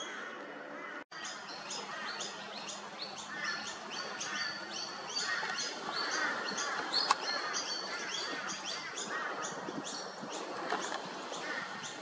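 A bird calling with a long run of short, high chirps repeated evenly at about three a second, over a steady outdoor bird-and-insect background. One sharp click stands out about seven seconds in.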